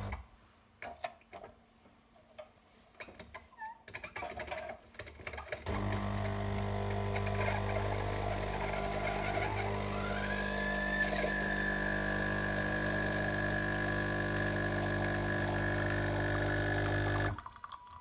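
Klarstein Bella Vita espresso machine's pump running steadily for about twelve seconds while it pulls an espresso shot. It starts about six seconds in after a few light clicks and cuts off shortly before the end. Partway through, a higher tone rises and then holds.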